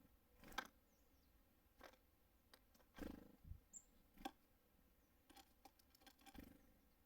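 Small birds at a feeder: a handful of scattered sharp taps and knocks on the feeder, with a duller knock about three seconds in and one short high call note just after.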